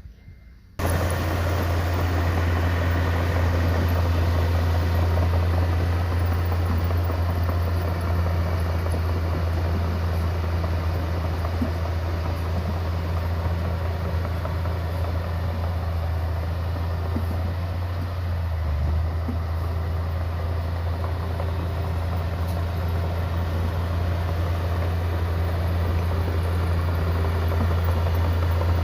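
Diesel engine of heavy earthmoving machinery running steadily with a deep drone. It cuts in abruptly about a second in.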